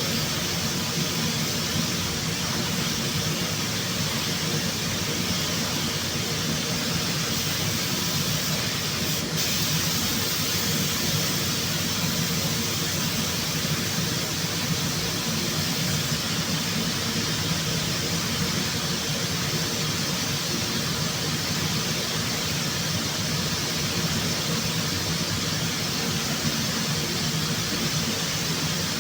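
Steady, even rushing hiss of air, with a faint steady hum beneath it.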